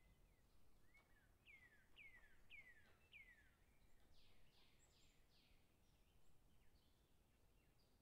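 Faint bird calls outdoors: a run of four quick whistled notes, each sliding down in pitch, about a second and a half in, followed by four harsher, raspy notes, with scattered faint chirps over a soft background hiss.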